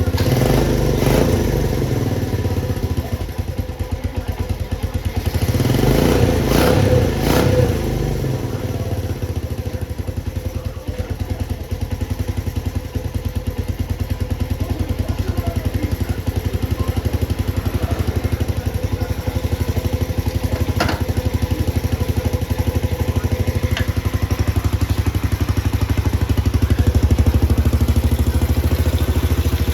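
Honda CT110's single-cylinder four-stroke engine running just after starting, with a short rise in revs several seconds in before it settles to a steady idle. It now starts readily on a newly replaced stator coil.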